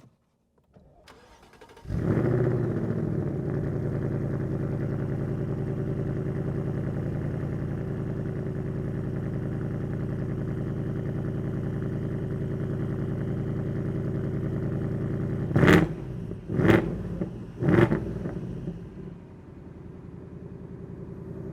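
2026 Ford Mustang GT's 5.0-litre Ti-VCT V8 starting about two seconds in with a brief flare of revs, then idling steadily through its active-valve exhaust set to track mode. Near the end it is revved three times in quick succession, about a second apart, and then settles to a lower, quieter idle.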